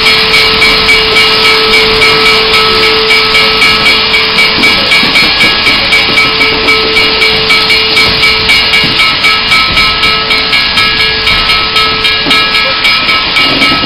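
Steam locomotive hissing steam continuously, the hiss pulsing at about four beats a second. A steady tone sounds under the hiss and stops shortly before the end.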